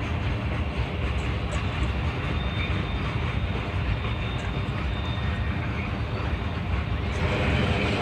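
Norfolk Southern Triple Crown RoadRailer train rolling past: the trailers' rail bogies rumble steadily on the track, getting a little louder and brighter about seven seconds in.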